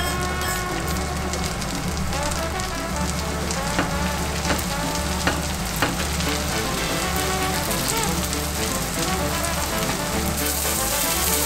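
Sliced shiitake mushrooms sizzling in melted butter in a frying pan: a steady hiss, with a few sharp clicks of tongs against the pan about four to six seconds in. Background music plays throughout.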